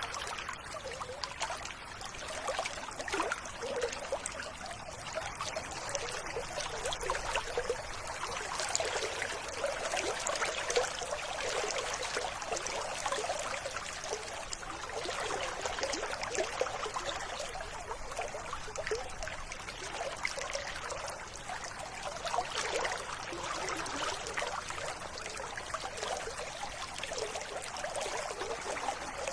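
Running water of a river or stream, trickling steadily.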